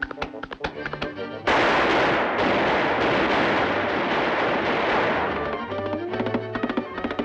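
Cartoon soundtrack: orchestral music with plucked notes, cut by a sudden loud volley of rapid gunfire sound effects about one and a half seconds in that lasts about four seconds, after which the music resumes.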